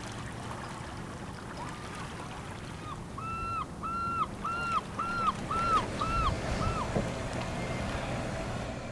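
A bird calls a series of about eight short, even notes, about two a second, each rising and then dropping in pitch. The calls start about two seconds in and stop about two seconds before the end, over a low steady hum.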